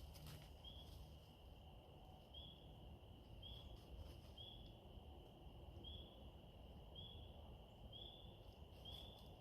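Near silence in the woods: a faint steady high-pitched chorus with short high chirps repeating about once a second, from small calling creatures such as insects or frogs.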